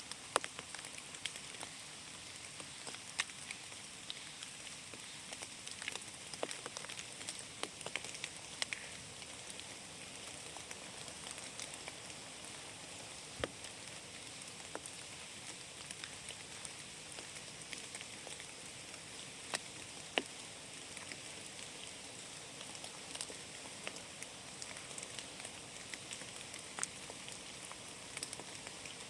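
Rain falling in a forest: a steady hiss with many scattered sharp ticks of single drops landing close by.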